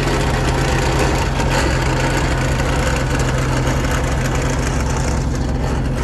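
John Deere 317 garden tractor's engine running steadily.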